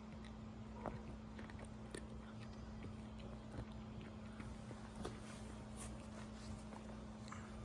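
A cat eating treats: faint, irregular clicks and ticks of treats and teeth, gulped more than chewed. A steady low hum runs underneath.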